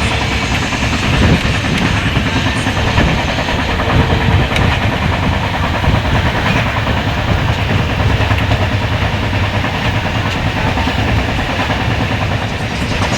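Train running along the railway track: a steady, loud rumble of wheels on rails.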